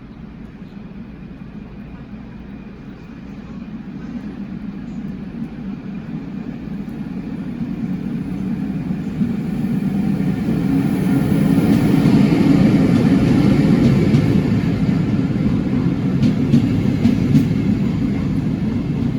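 A train approaching, its low rumbling running noise growing steadily louder for about twelve seconds and then holding.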